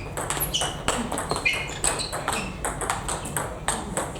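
Table tennis ball in play: an irregular series of sharp clicks from the ball striking bats and bouncing on the table, with a few short high squeaks between them.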